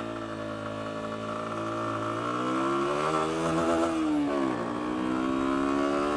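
Lexmoto Venom 125's single-cylinder 125cc engine running under way, its note holding steady, climbing about three seconds in, dropping back a second or so later and climbing again.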